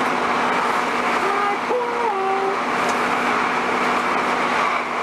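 Cabin noise inside a Class 150 diesel multiple unit on the move: the steady drone of the underfloor diesel engine and transmission under the rumble of the wheels on the track. A brief pitched sound rises and falls near the middle.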